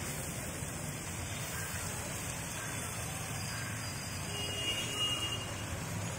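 Spinach leaves cooking in oil in a pot, giving a steady sizzling hiss.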